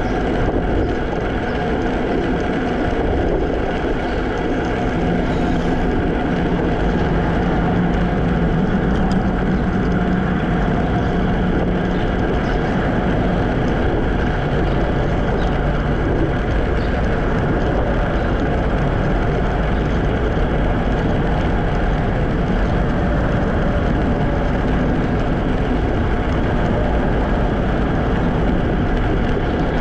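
Steady rush of wind on the microphone and road noise while riding a Segway Ninebot electric scooter, with a low hum that grows louder for a few seconds around the middle.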